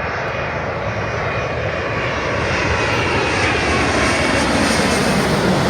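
Jet airliner on final approach passing low overhead, its engines a loud, rushing roar that grows steadily louder as it comes over.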